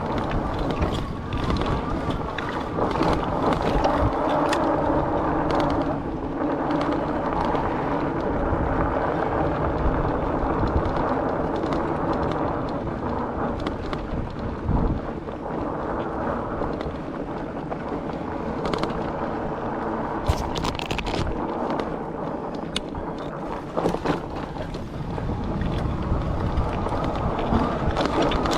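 Wind buffeting a chest-mounted action camera's microphone while riding a fat-tire Rad Rover e-bike, with a steady hum underneath and a few light clicks about two-thirds of the way through.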